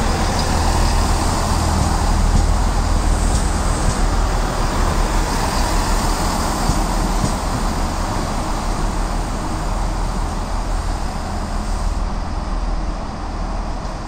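A train passing, a steady loud rumble with hiss that eases off near the end.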